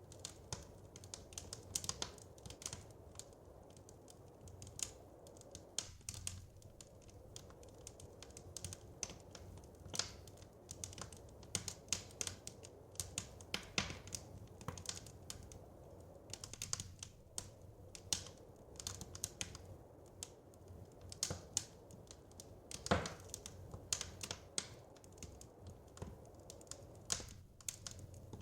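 Wood fire crackling in a fireplace: irregular sharp snaps and pops over a low steady rumble of the flames, with one louder pop about 23 seconds in.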